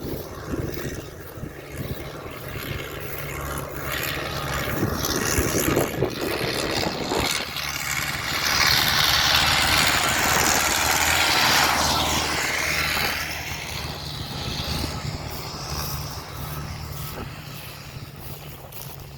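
An engine running steadily with a low hum. A rushing noise swells over it, loudest from about eight to thirteen seconds in, then fades.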